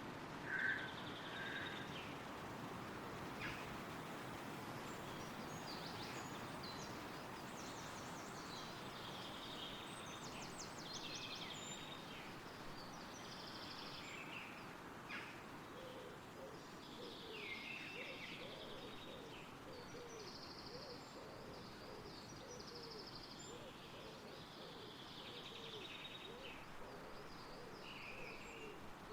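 Wind rustling through the trees as a steady hiss, with several songbirds singing high, short phrases throughout. From about halfway on, a low call repeats about twice a second.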